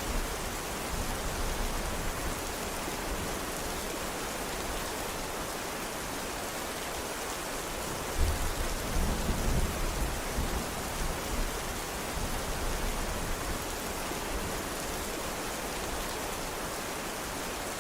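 Steady rain, an even hiss of falling water, with a low rumble of thunder swelling about eight seconds in.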